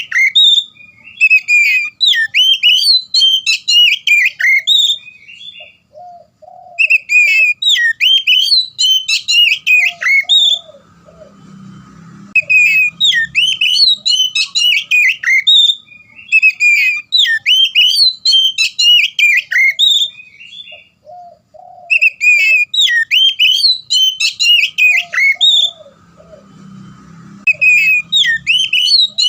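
Oriental magpie-robin (kacer) singing in full, loud song. Bursts of rapid, varied whistled notes, each a few seconds long, come with short pauses between them and a few lower notes in the gaps.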